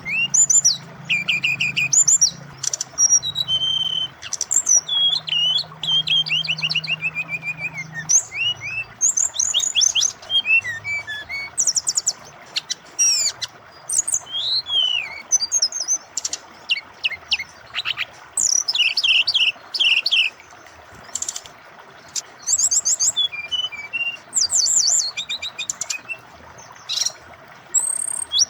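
Brown-chested jungle flycatcher (SRDC) singing a long, varied, near-continuous run of quick whistled phrases, rising and falling sweeps and trills, over a steady sound of flowing water.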